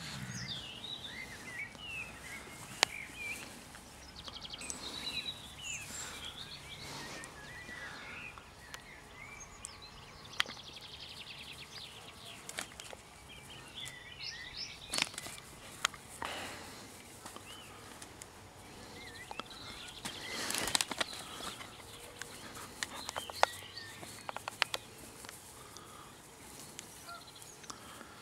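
Small birds chirping and singing in the background, many short quick calls throughout, with a few sharp clicks or knocks here and there.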